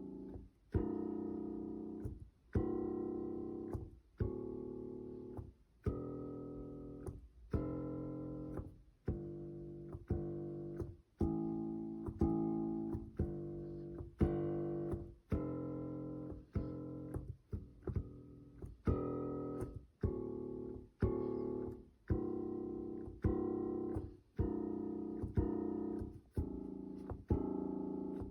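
Piano tone playing a slow, even run of chords, about one struck every second, each ringing and fading before the next.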